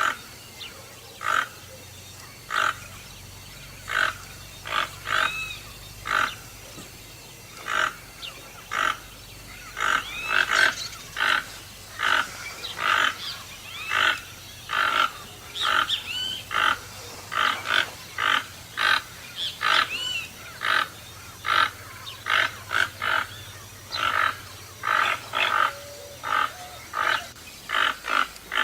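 A toucan calling over and over in short calls, about one or two a second at an irregular pace, with a few higher chirps mixed in.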